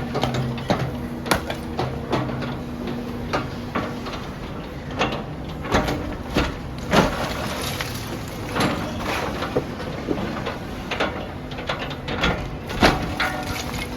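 Demolition excavator at work: its engine runs under a steady low hum while irregular sharp knocks and crunches of breaking masonry and falling rubble sound every second or so.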